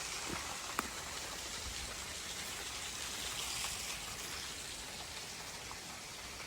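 Steady, even rush of running water from a small waterfall and its stream, flowing low.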